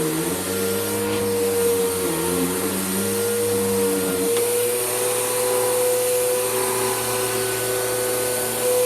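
Bissell PowerGroom Helix Rewind upright vacuum cleaner running, its motor giving a steady whine. The lower tones dip and recover twice in the first half and then hold steady.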